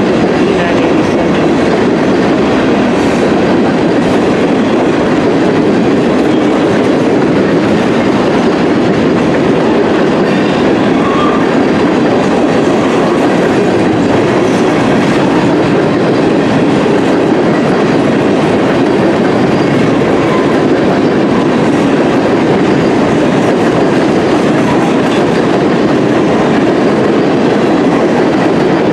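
Freight cars (tank cars and covered hoppers) rolling past, their steel wheels on the rails making a loud, steady rolling noise.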